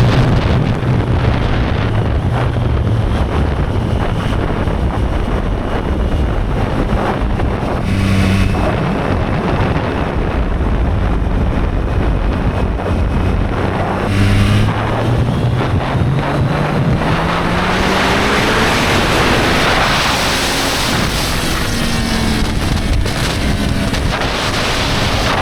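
Triumph Street Triple 765 R's three-cylinder engine pulling under way, with heavy wind on the microphone. Past the middle, the engine pitch climbs steadily as the bike accelerates.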